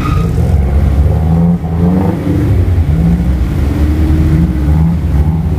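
Off-road 4x4 vehicle engine running, with the pitch rising and falling a few times as it is revved.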